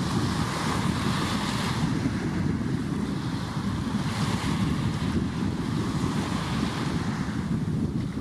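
Surf washing in along the shore, swelling and easing with the waves, with wind buffeting the microphone in a steady low rumble.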